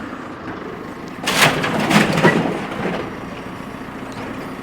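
A truck's hood being worked loose and pulled off: a short run of clattering, creaking knocks between about one and three seconds in, over a steady low hum.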